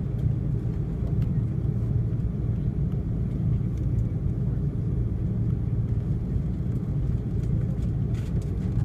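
Steady low rumble of an Airbus A330-300's engines and airframe heard inside the passenger cabin while the aircraft taxis.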